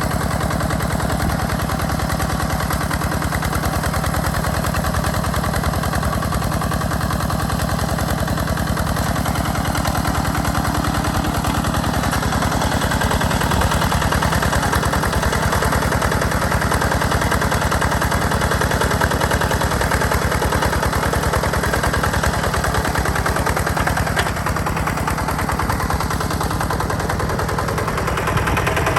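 Two-wheel walking tractor engine running steadily, a rapid, even chugging.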